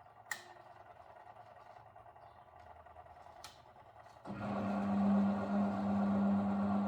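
Miele Deluxe-Electronic W761 washing machine mid-programme: two clicks, then about four seconds in a motor in the machine switches on with a loud, steady hum.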